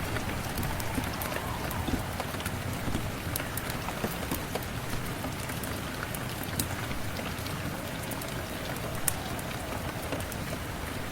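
Steady rain with scattered sharp pops and clicks, typical of a crackling fireplace mixed in.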